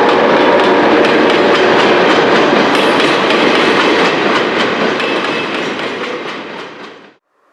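Empty grain hopper wagons rolling past close by, a loud steady rumble of wheels on rail with a regular clickety-clack as the wheels cross rail joints. The sound fades away over the last couple of seconds and cuts off suddenly.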